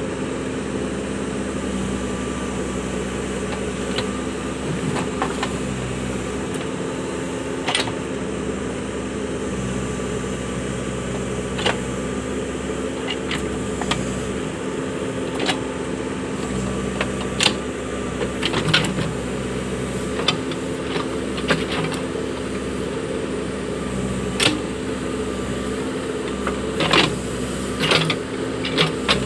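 Case 580 backhoe loader running at a steady drone, with scattered sharp clicks and knocks that come more often near the end.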